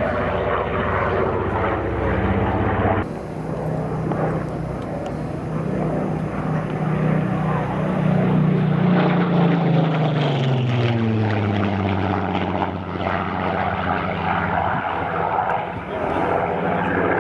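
Piston-engined propeller aircraft flying an aerobatic display, its engine running steadily and then dropping in pitch as it passes, about ten seconds in. The sound changes abruptly about three seconds in.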